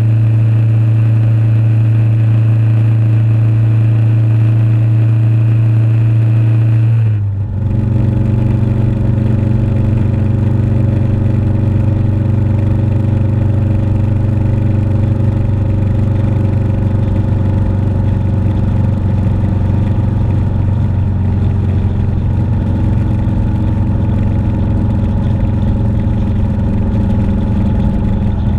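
Motorcycle engine running steadily on the road, with a brief drop and a slight change in pitch about seven seconds in before it settles into a steady note again.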